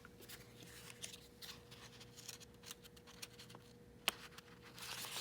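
Faint rustling and small clicks of a picture book being handled and its page turned, with a denser rustle near the end, over a faint steady hum.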